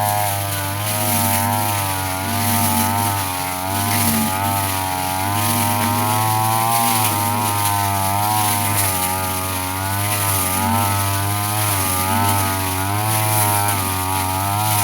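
Petrol brush cutter running fast with its metal blade spinning, the engine pitch wavering up and down every second or two as the blade sweeps through grass.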